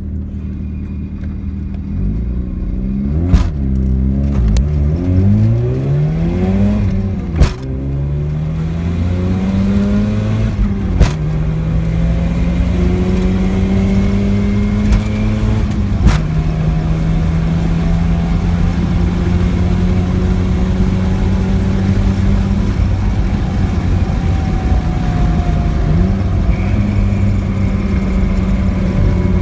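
Mazda RX-7 FC3S two-rotor rotary engine accelerating from a standstill. Its pitch rises through several gears, drops at each change, then holds steady for the last half. A sharp click comes at each gear change. Somewhere under the acceleration is an abnormal noise whose cause the owner does not know.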